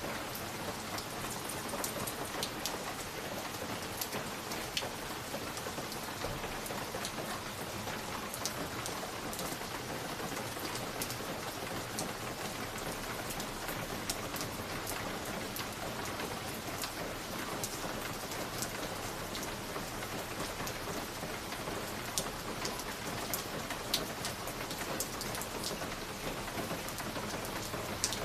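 Steady, even hiss sprinkled with frequent sharp crackles and ticks, the continuous noise of a cozy fireplace-and-rain ambience track.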